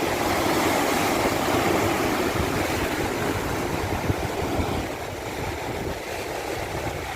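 Rushing water: a steady, even wash that eases slightly about five seconds in.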